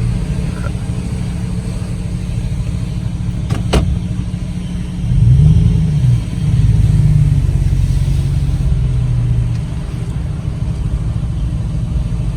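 Chevy Silverado 1500 pickup's engine running at low speed, heard from inside the cab, with a brief rise and fall in engine pitch about five seconds in. A single sharp click comes a little before that.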